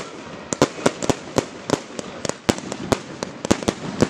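Fireworks display: aerial shells bursting in a rapid, irregular string of sharp bangs, about four a second, over a steady background of noise.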